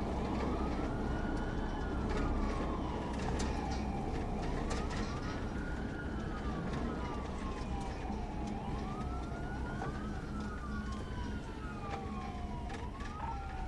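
Police cruiser siren wailing, its pitch climbing quickly and then gliding slowly down about every four seconds during a pursuit. A steady low rumble and scattered knocks run underneath.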